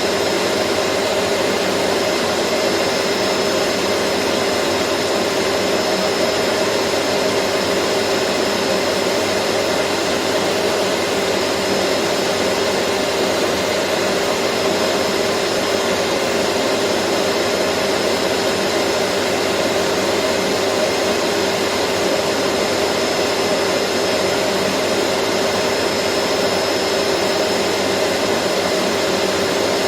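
Vacuum cleaner motor running steadily, a constant rushing whir with a hum in it and no change in speed.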